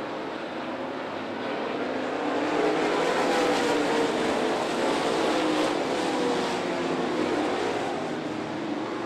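Dirt late-model race cars' V8 engines running hard around the track, several engines overlapping with pitch shifting up and down. The sound swells about two seconds in as the cars come closer, then eases off near the end.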